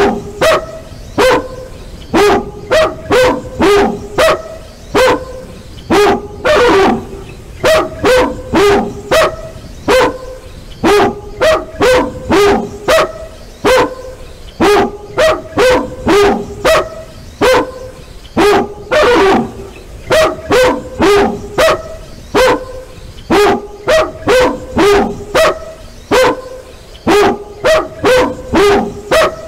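Dog barking loudly and repeatedly in quick volleys of two to five barks with short gaps between, with two longer, drawn-out calls about 7 and 19 seconds in.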